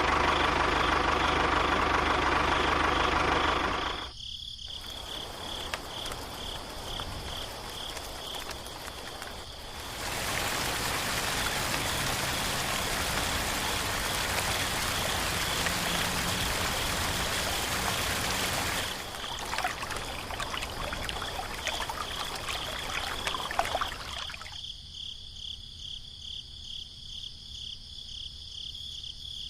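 Water running and splashing in several stretches, loudest for about nine seconds in the middle, with a steady insect chirping throughout.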